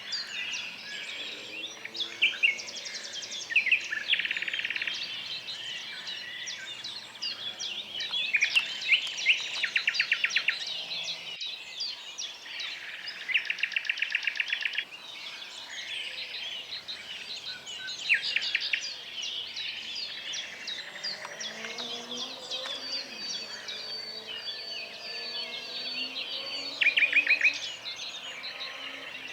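Several birds calling and singing at once, a dense chorus of chirps with repeated fast trills.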